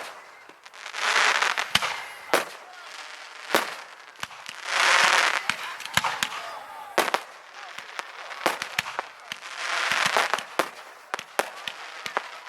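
Fireworks display: many sharp bangs from shells bursting, with three longer noisy swells of about a second each, near the start, in the middle and near the end.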